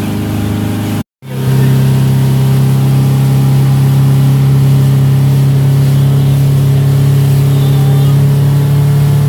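Motorboat engine running steadily under way, with a rushing hiss over it. It cuts out briefly about a second in and comes back at a slightly higher, steady pitch.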